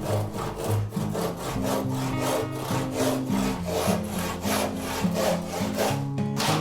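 Hand saw cutting through a block of wood in quick, even strokes, about three a second, over background music.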